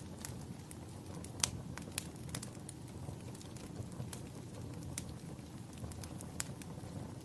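Wood fire crackling in a fireplace: irregular sharp pops and snaps over a soft steady low rush of flame, with the loudest pop about a second and a half in.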